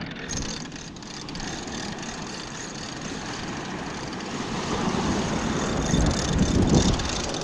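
Wind rumbling on the microphone over the wash of surf, swelling louder about five to seven seconds in.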